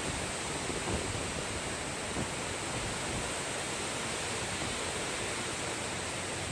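Wind blowing steadily, an even rushing noise with no let-up.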